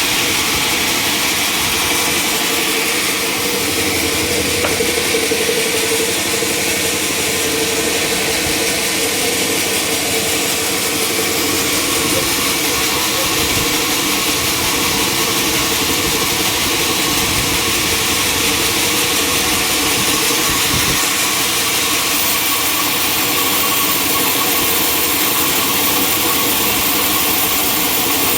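Sawmill machinery running steadily, a loud continuous engine-like drone with a held hum.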